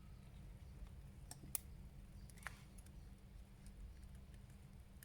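A few faint clicks of hard plastic as an action figure's head is worked off and swapped, over a low steady hum.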